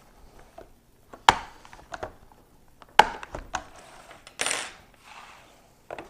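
Parts of a Lansky sharpening kit being handled: a few sharp clicks and knocks of small hard pieces, the loudest about a second in and about three seconds in, with a short rattle a little past the middle.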